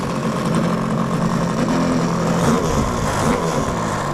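An engine running steadily, its pitch wavering slightly around the middle.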